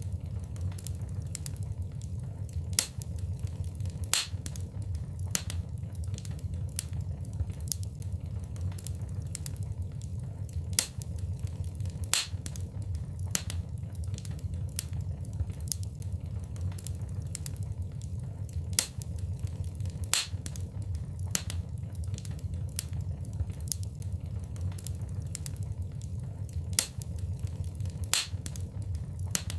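Wood fire burning in a fireplace: constant crackling with irregular sharp pops, several of them much louder, over a steady low rumble of the flames.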